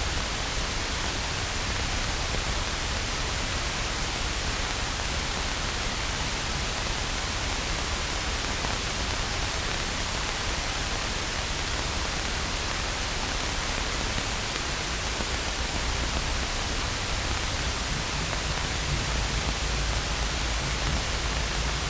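Steady hiss from the aircraft's intercom and radio audio between transmissions, with a low steady hum of the engine beneath it.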